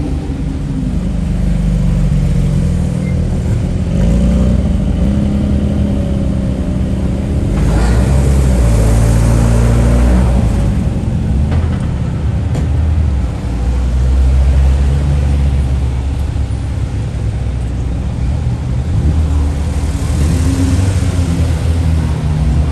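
Race car engines running and revving, their pitch stepping up and down, with louder swells about eight and twenty seconds in.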